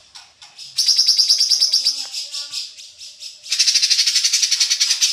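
Cucak ranting songbird singing vigorously in fast runs of high, rapidly repeated notes. One run starts about a second in and another about three and a half seconds in, with softer chattering between them.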